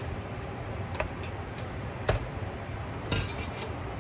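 Scattered light clicks and taps of kitchen utensils while cooked chicken is shredded, one sharper knock about two seconds in and a small cluster near the end, over a steady low hum.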